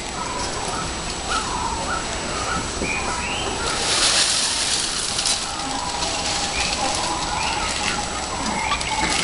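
Birds calling in the background, short chirps repeating every half second or so, with a burst of hissing noise about four seconds in that lasts a second and a half.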